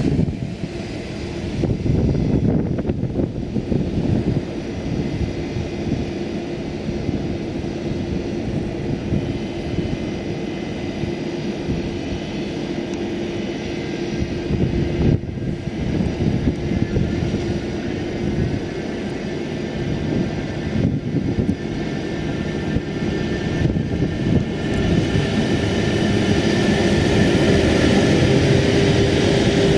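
DSB EA electric locomotive standing at the platform with its cooling blowers running: a steady rushing hum with a held tone, growing somewhat louder near the end.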